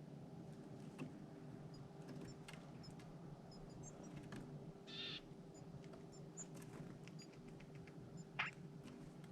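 Faint high chirps of small birds with scattered light clicks and taps. There is a short rasping burst about halfway through and a sharper call sliding down in pitch near the end, over a steady low hum.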